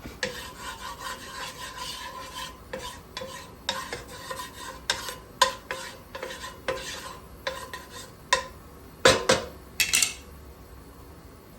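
A spatula scraping and knocking around a metal sauté pan: a busy run of clicks and scrapes with the pan ringing faintly, and two louder knocks about nine and ten seconds in.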